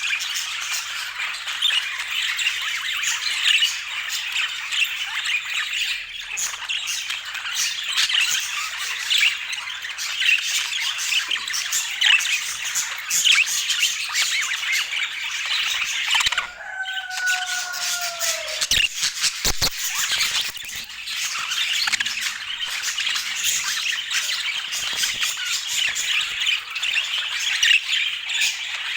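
A group of budgerigars chattering continuously, a dense mix of warbles, chirps and squawks. About halfway through it breaks off briefly for one lower call that falls in pitch and a few sharp clicks, then resumes.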